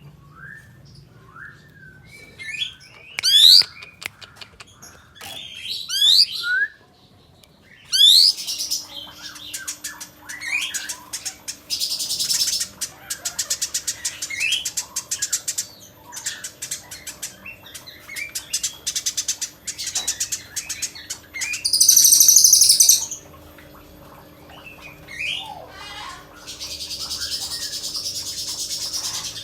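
Caged kapas tembak songbird singing a varied song: rising whistles, rapid chattering ticks and trills, and several loud harsh buzzy rattles.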